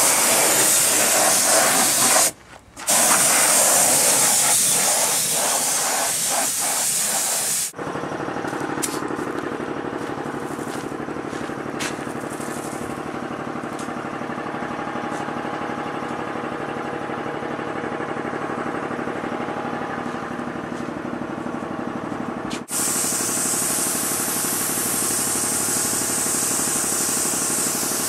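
Compressed-air paint spray gun hissing in long passes, with a brief break about two seconds in. Through the middle the hiss gives way to a steady machine hum with several even tones. The spray hiss starts again near the end.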